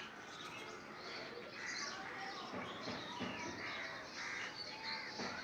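Birds calling, short repeated calls over a steady busy background.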